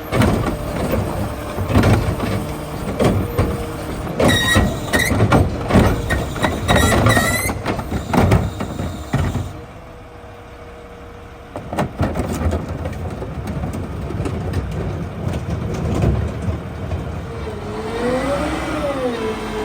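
Garbage truck working a cart pickup: a run of loud bangs and clatter with a high squeal partway through, then the diesel engine running steadily and revving up and back down near the end.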